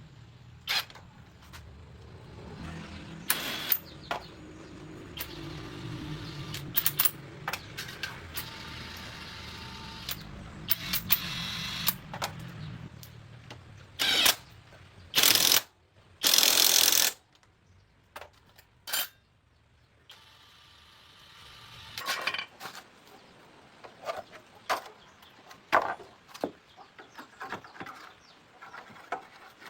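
Metal hand tools clicking, knocking and clattering during a motorcycle inner-tube puncture repair, with two short loud bursts of hiss about halfway through.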